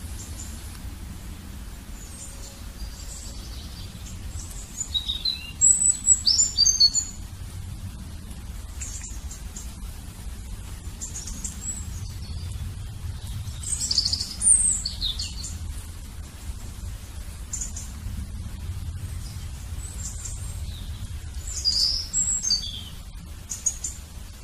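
A small bird chirping in three short bouts of quick, high, sweeping notes: about five seconds in, again around fourteen seconds, and near the end. A steady low rumble runs underneath.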